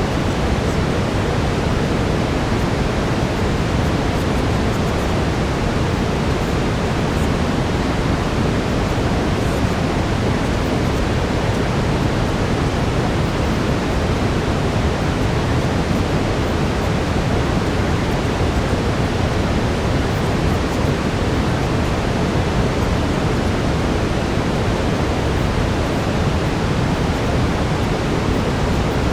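Steady brown noise: an even, deep hiss that holds at one level without change.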